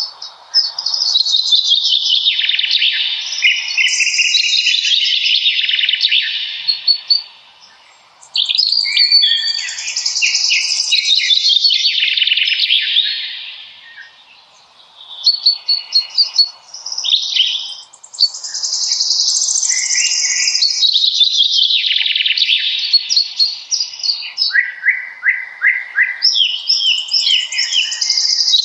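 Songbirds singing in a spring forest. Long, rapid, high-pitched warbling phrases follow one another almost without pause, dropping away briefly about a quarter of the way in and again near the middle.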